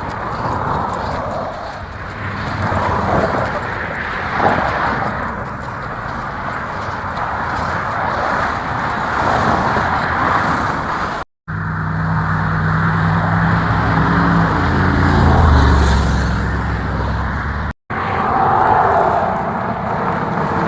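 Motor vehicle noise: a steady rush of traffic. In a middle stretch a vehicle engine runs with a low hum that rises and falls, and the sound is cut off sharply twice by edits.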